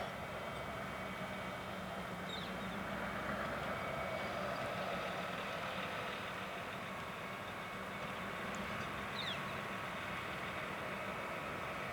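A steady engine idle hum with a few faint short chirps.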